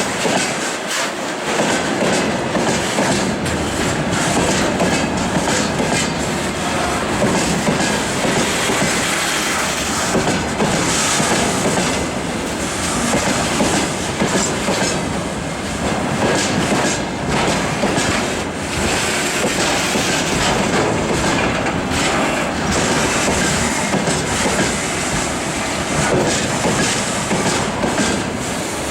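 Freight train rolling past with its wagon wheels clattering steadily over the rail joints.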